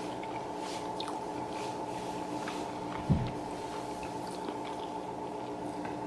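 Close-miked chewing of a sausage and egg McMuffin: soft, wet mouth sounds and small clicks, with one low thump about three seconds in, over a steady hum.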